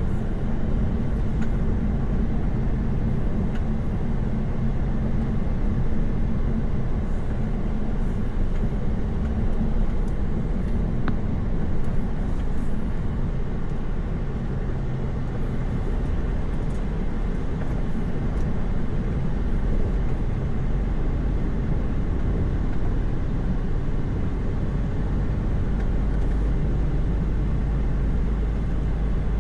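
Truck's diesel engine running at steady cruising speed on a highway, with tyre and road noise, heard from inside the cab.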